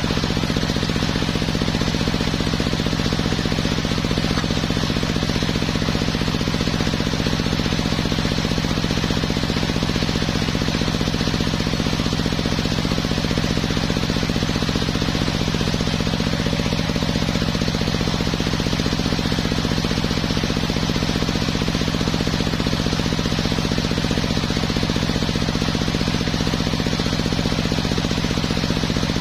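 The engine of a homemade circular-saw sawmill running steadily, with a rapid, even pulsing.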